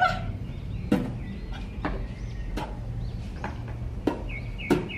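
Birds chirping faintly in the background, broken by a handful of sharp, irregular knocks about a second apart.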